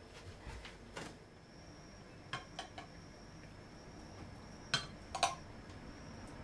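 Light clinks of dishes and cutlery: a few separate sharp taps, with the two loudest close together near the end.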